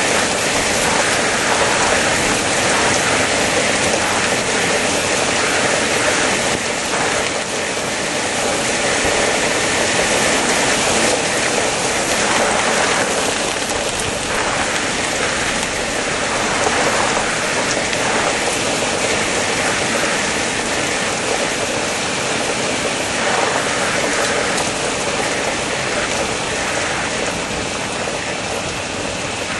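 Heavy thunderstorm rain falling steadily: an even, loud hiss that eases slightly near the end.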